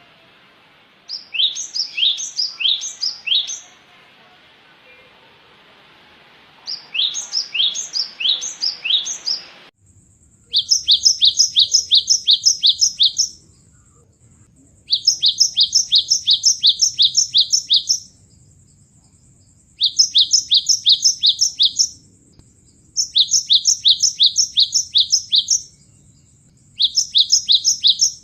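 Cinereous tit (gelatik batu) song: rapid runs of high, repeated notes in bursts of a few seconds with short pauses between. About ten seconds in the background hiss drops out abruptly and the bursts become more regular, as from a different recording.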